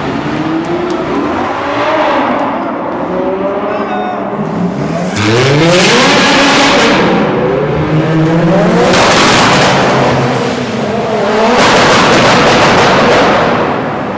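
Sports-car engines revving and accelerating hard through the gears in a road tunnel, echoing. Softer revs come first, then from about five seconds in three loud runs of rising revs, each broken by gear changes.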